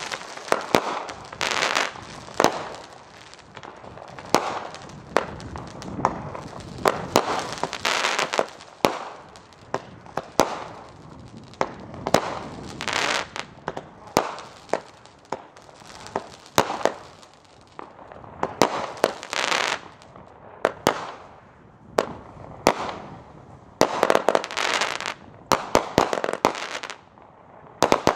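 A 200-gram, 25-shot consumer firework cake firing shot after shot. Sharp launch pops and aerial breaks come every second or so, each followed by a crackling, fizzing tail.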